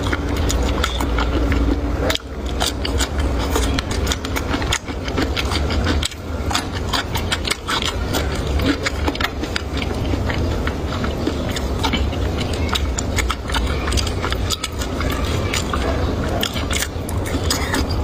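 Close-miked eating and chewing: many quick, irregular clicks and crackles over a steady low hum.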